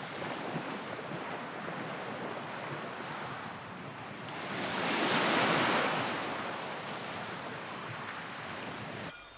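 Sea surf washing on a beach, a steady rush of waves with one wave swelling and breaking louder about halfway through. The sound cuts off suddenly near the end.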